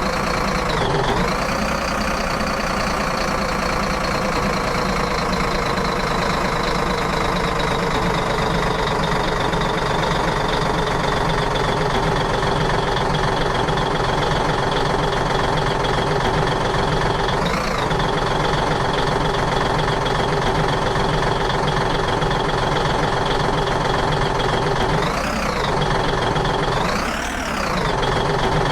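A heavy vehicle engine running steadily at idle. Its pitch dips briefly and comes back up a few times, mostly near the end.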